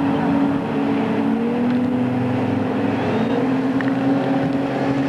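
Excursion motorboat's engines running steadily under way, a loud even drone whose pitch shifts slightly a couple of seconds in.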